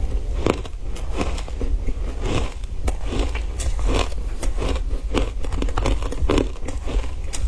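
Frozen ice being bitten and chewed close to the microphone: a steady run of crisp, irregular crunches and cracks, several a second.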